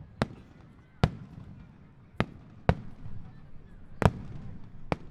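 Starmine fireworks barrage: aerial shells bursting with sharp bangs, six in about five seconds, over a low rumble, with faint whistles between the bursts.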